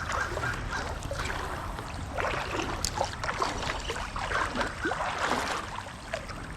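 Water splashing and gurgling in irregular little spurts over a steady rush.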